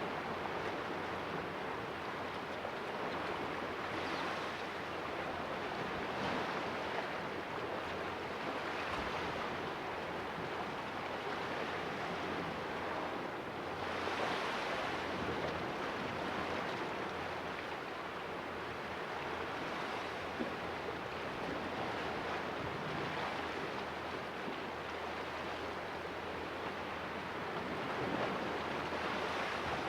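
Small sea waves washing and splashing in a rocky cove: a steady wash that swells with a fresh splash every few seconds.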